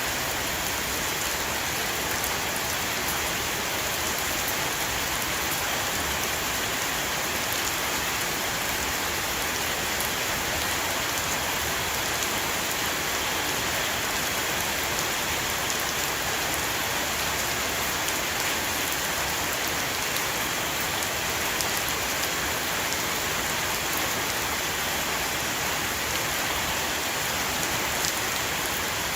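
Steady heavy rain shower falling on a roof, a constant dense hiss of drops with occasional faint ticks of individual drops.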